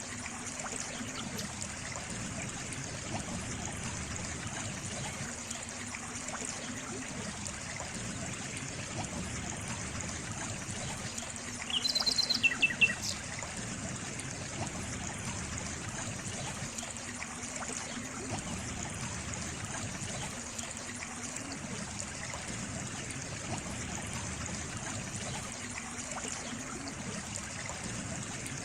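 Steady trickling, flowing water of a stream. About halfway through, a bird gives a brief burst of a few quick chirps, louder than the water.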